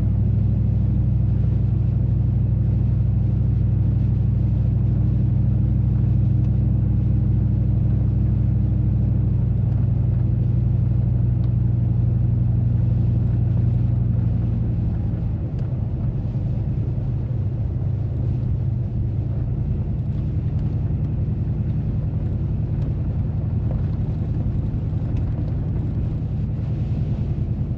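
Pickup truck cabin drone while driving: a steady low engine hum and road rumble heard from inside the cab. The hum changes pitch about halfway through.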